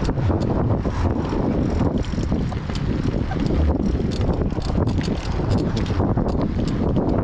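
Wind buffeting the camera's microphone while riding a bicycle, a steady low rush with many small clicks and rattles.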